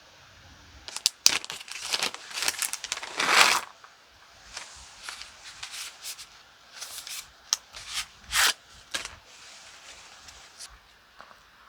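Crinkling and tearing of packaging being handled: a run of loud rustling bursts in the first few seconds, then scattered sharp clicks and shorter rustles.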